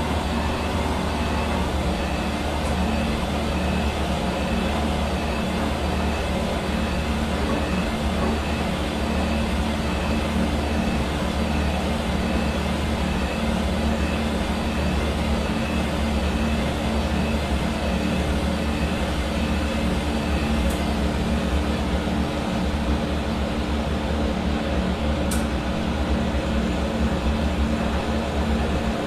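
Hair dryer running steadily: a constant rush of air over a low motor hum with a faint high whine.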